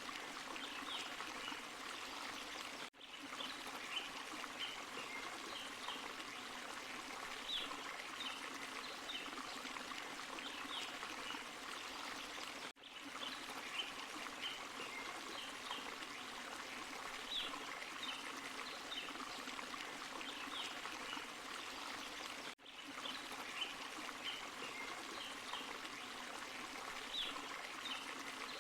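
A small forest waterfall and stream running steadily over rocks, with many small high splashes and trickles on top of the even rush. Three times the sound dips out for a split second, about ten seconds apart.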